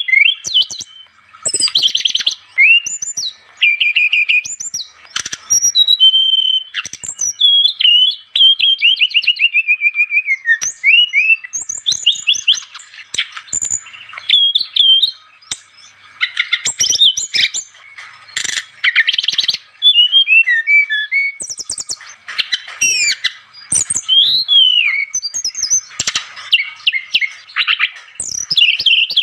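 Brown-chested jungle flycatcher (sikatan rimba dada coklat) singing a loud, varied song of quick whistled phrases, trills and slurred notes, with short pauses between phrases.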